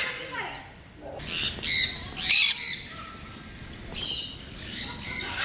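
Parrots squawking: a run of loud, harsh calls about one to three seconds in, and more calls near the end.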